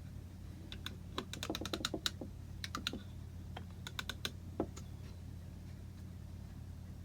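A quick, irregular run of light, sharp clicks and taps lasting about four seconds, over a steady low hum.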